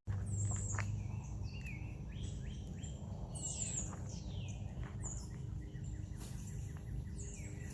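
Several birds chirping and singing, with many short falling calls, over a steady low outdoor rumble.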